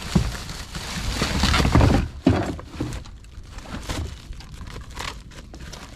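Crackling, rustling and knocking of cut tree branches and gear being handled aboard a boat, with a sharp knock at the start and a louder scraping, rumbling stretch about a second in.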